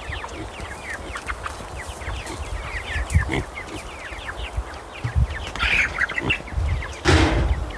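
A group of young meat-bird chicks peeping continually, many short downward-sliding peeps. A brief rustling burst near the end.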